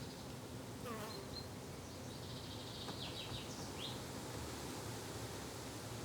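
Garden ambience: insects buzzing steadily, with a few short high bird chirps in the middle and a falling whistle about a second in.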